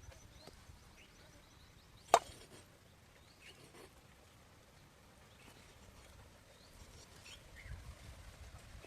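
A single sharp knock about two seconds in, over a low outdoor background with faint, short bird chirps scattered throughout.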